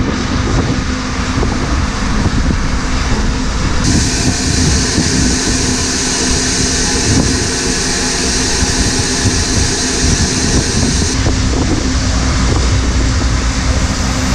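Farm tractor's diesel engine running steadily under a constant low hum. A steady high hiss joins about four seconds in and stops about eleven seconds in.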